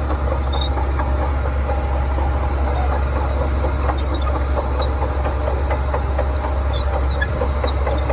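Shantui bulldozer's diesel engine running steadily with a deep, even hum, light clicks scattered over it.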